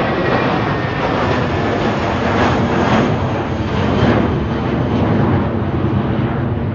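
Departing airliner's engines at takeoff power: a loud, steady rumble and roar, its higher part thinning toward the end.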